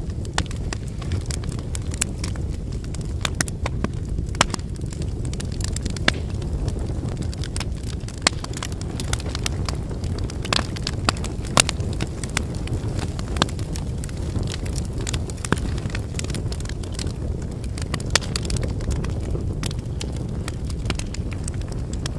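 Wood fire burning: a steady low rumble of flames with irregular pops and crackles from the burning firewood, a few sharper snaps standing out.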